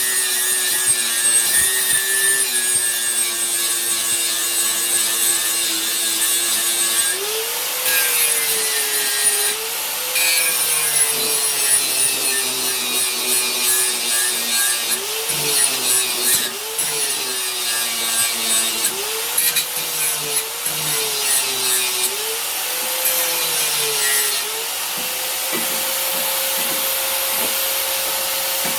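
Power grinder grinding the burr off the back of an old steel meat cleaver's blade. The motor's pitch sags each time the steel is pressed in and climbs back between passes, then runs free and steady near the end.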